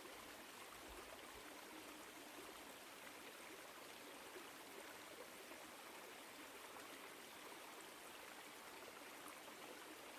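Small woodland stream flowing over rocks: a faint, steady rushing of water.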